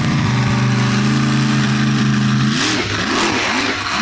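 Supercharged monster truck engine running hard at a steady high rev, then blipped up and down several times in quick succession in the last second and a half.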